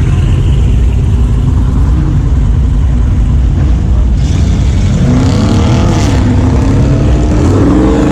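Car engine running with a deep, loud rumble, its pitch rising and falling as it revs from about five seconds in.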